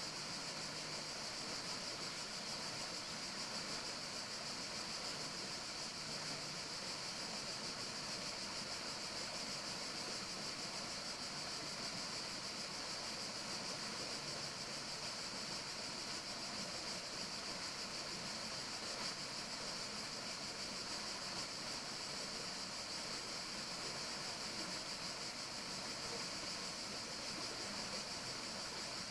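Steady forest nature ambience: an even, unbroken hiss with a strong high-pitched band and no distinct events.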